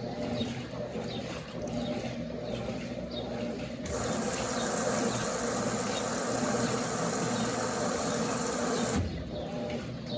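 Water gushing into the Brastemp Eggo mini washing machine's tub, a loud even rush that starts about four seconds in and cuts off suddenly some five seconds later, over a low steady hum.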